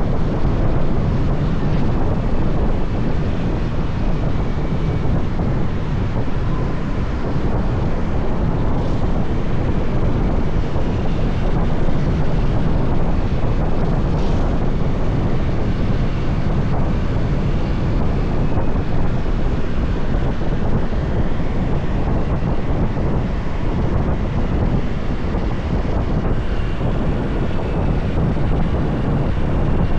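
Steady wind rush over the microphone of a moving motorbike, mixed with the bike's engine and road noise, holding evenly throughout.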